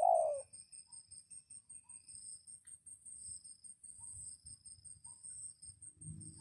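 Insects trill steadily in the forest. A single loud bird note falls in pitch right at the start, and a low dove-like cooing begins near the end.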